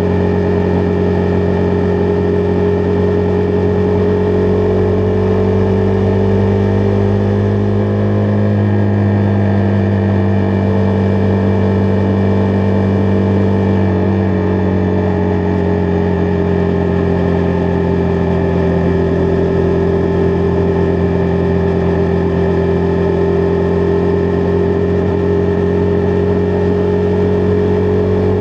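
Husqvarna Vitpilen 401's single-cylinder engine running at a steady cruise on the road. Its revs rise slightly about eight seconds in, then settle back and hold steady.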